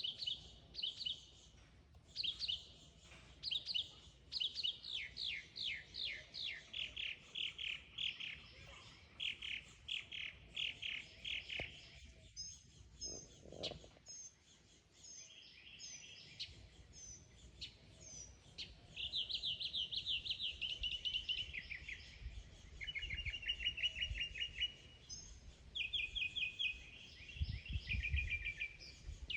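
Mockingbird singing: a varied song of chirping phrases, each repeated several times in quick succession before the bird switches to a new phrase.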